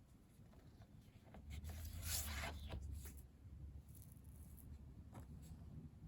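Glossy photo prints being handled: a faint rustle and slide of paper about two seconds in, with a few light clicks and a low bump of handling around it.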